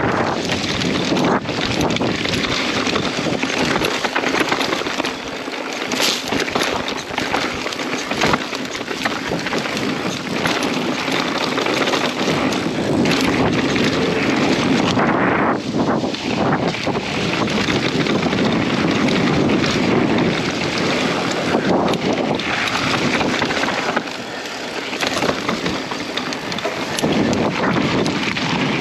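Mountain bike riding a dirt trail, with heavy wind noise on the microphone over the tyre noise and a few sharp knocks from the bike going over bumps.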